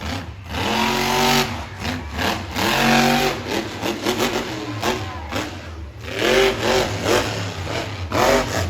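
Monster truck engine revving in repeated bursts, its pitch rising and falling about four times over a steady low drone.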